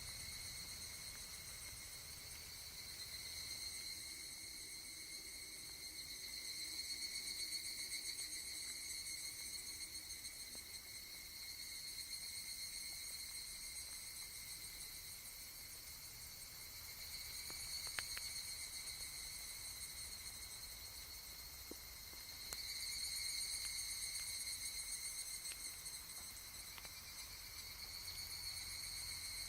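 Cicadas calling in chorus: a steady, shrill, high-pitched insect drone that swells and fades in slow waves, a weird "wah, wah" sound.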